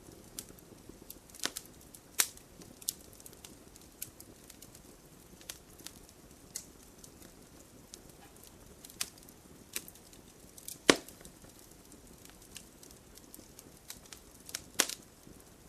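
Wood fire in a fireplace crackling: a soft hiss with scattered sharp pops and snaps, the loudest a little after two seconds, near eleven seconds and near the end.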